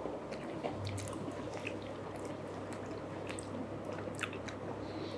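Faint, wet mouth sounds of two people eating kheer (rice pudding): scattered soft smacks and small clicks over a steady low hum.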